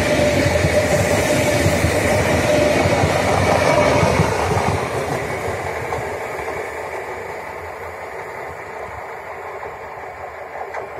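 Renfe Media Distancia passenger train passing on its rails with a steady whine. It fades away from about four seconds in as it recedes.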